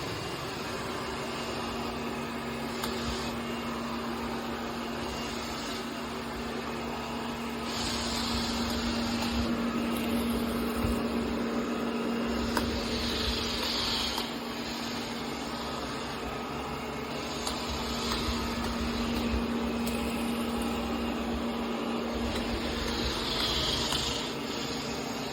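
ECOVACS DEEBOT N20 PRO PLUS robot vacuum running: a steady motor hum, with a short hissing whoosh that comes back about every five seconds.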